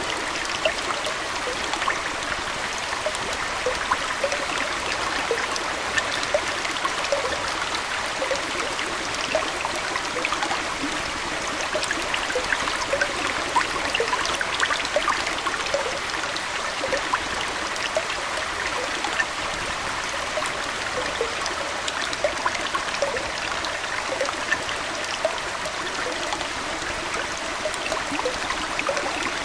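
Aquarium water trickling and splashing steadily, with many small bubbling plinks scattered throughout.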